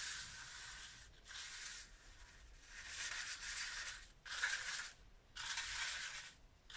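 A bamboo-leaf brush sweeping across paper in five scratchy strokes, each about a second long, with short pauses between.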